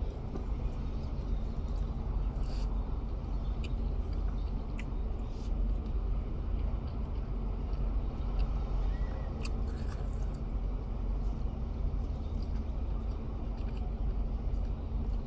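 Steady low hum of a car engine running, heard from inside the cabin, with a few short clicks scattered through it.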